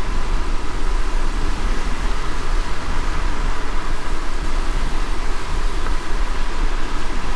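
Car driving in light rain: a steady low road rumble under an even hiss of rain and wet road.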